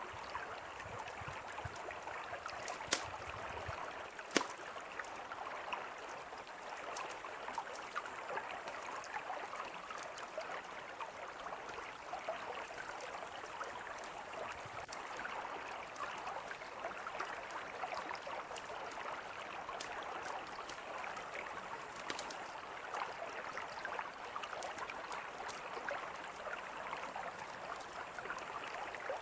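A river flowing steadily, with a campfire crackling over it in scattered sharp ticks; two louder pops about three and four and a half seconds in.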